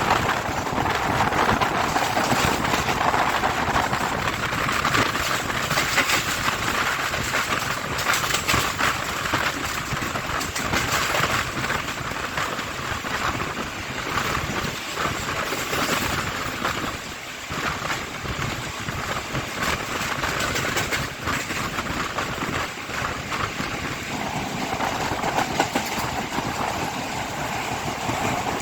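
Express train running at high speed on the rails: a steady rush and rumble with rapid clicks and clatter from the wheels over the track.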